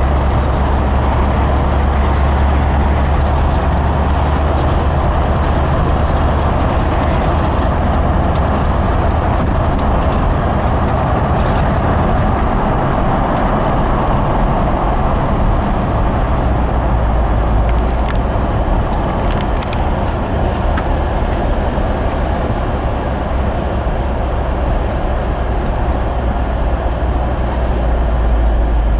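1970 Ford Bronco being driven: steady engine and road noise with a deep drone that drops in pitch about twelve seconds in and rises again near the end.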